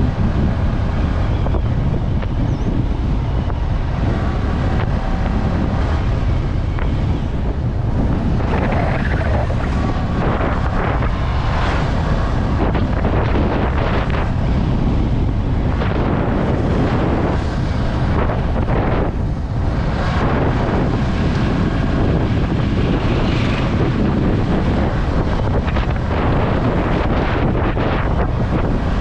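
Steady, heavy wind rushing over an action-camera microphone on a Yamaha R15 V3 motorcycle riding at speed. The bike's engine is largely buried under the wind.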